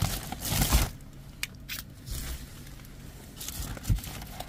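Plastic bags and packaging rustling and crinkling in irregular bursts as items are handled, with a sharp knock near the end.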